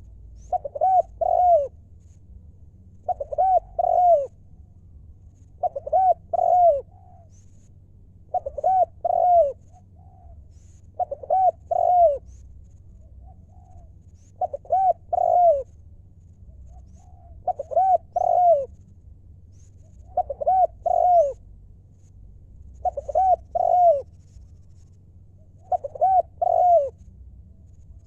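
Spotted dove cooing, a phrase of two or three arching coos repeated about every three seconds.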